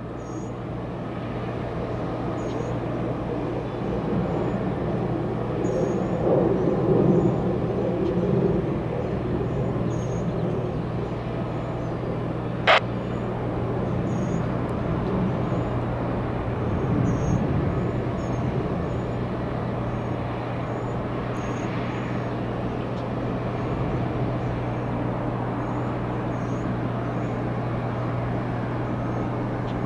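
Steady engine rumble with a constant low hum, swelling a little twice, with one sharp click about thirteen seconds in and faint high chirps throughout.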